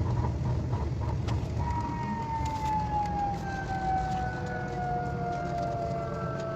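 KTX high-speed train's running rumble, sped up about six and a half times, with a whine that starts about a second and a half in and falls slowly in pitch as the train slows for its station stop.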